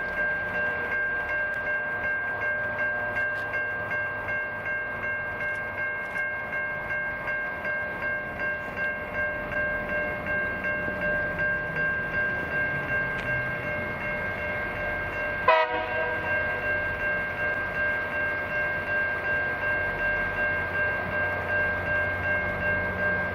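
ARTC rail grinder train working on the track: a steady, high ringing whine over a low rumble, pulsing about twice a second. About fifteen seconds in comes a single sharp clank with a brief falling ring.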